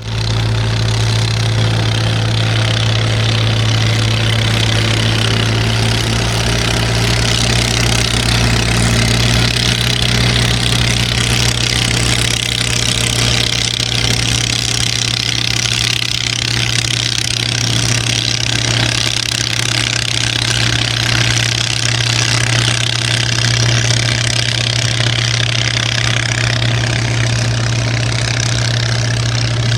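Boat engine running steadily at an even speed: a constant low hum under a steady hiss.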